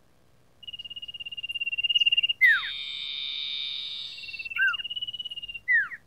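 Common iora (cipoh) calling: a fast, even trill at one pitch that grows louder, then a down-slurred whistled note with a harsh buzzy rattle for about two seconds. The trill comes back, and a last down-slurred whistle ends it.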